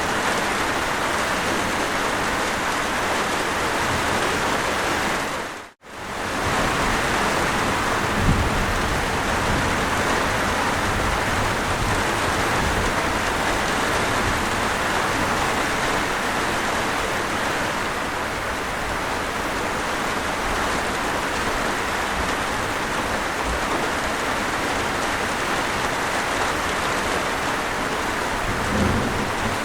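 Steady rain, an even hiss of falling drops. It fades out to silence for a moment about six seconds in, then comes straight back.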